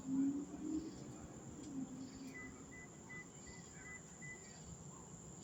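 Crickets chirping in a steady high-pitched chorus, with a run of short, evenly spaced chirps in the middle and a faint low hum near the start.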